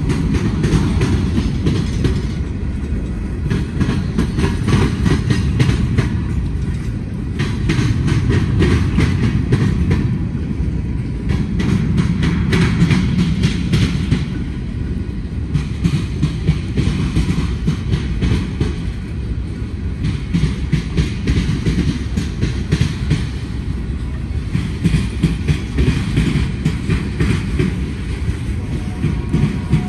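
Mixed freight train of boxcars, covered hoppers and tank cars rolling past. A steady low rumble is broken by rapid, repeated clacks of steel wheels on the rails.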